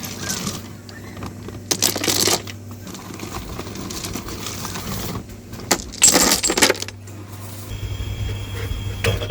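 Stone gravel poured into a bucket around a water pipe, the stones rattling in two short pours, the first about two seconds in and the second, louder one about six seconds in, over a steady low hum.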